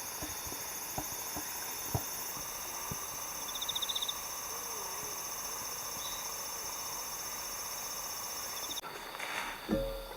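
Crickets and other autumn insects trilling steadily in several high-pitched layers, with a brief faster trill about four seconds in. The insect sound cuts off near the end, and a rooster starts to crow.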